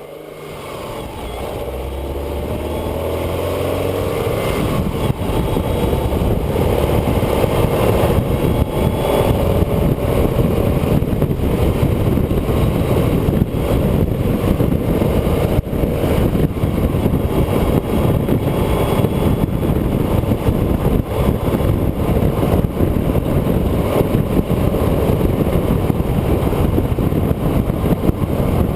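Onboard sound of a road vehicle driving. The sound fades in, and the engine note climbs in pitch over the first few seconds as it accelerates. A steady rush of wind and road noise then largely covers the engine.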